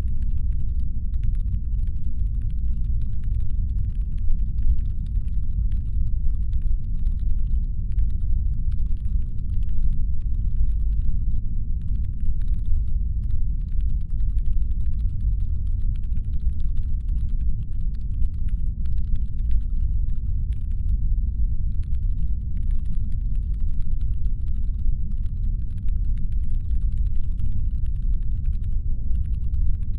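Steady, deep brown-noise rumble made as a spaceship's engine hum, with faint irregular ticking crackle layered above it.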